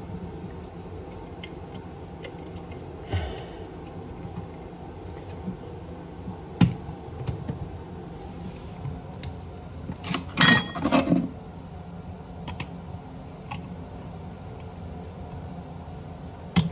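Scattered light clicks and metallic clinks of small tools and fittings being handled, with a brief run of louder clatters about ten seconds in, over a faint steady hum.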